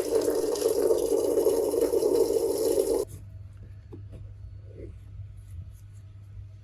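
Steady loud hissing spray, as of cleaner being sprayed onto an oily engine, cutting off abruptly after about three seconds. A low steady hum with a few faint clicks follows.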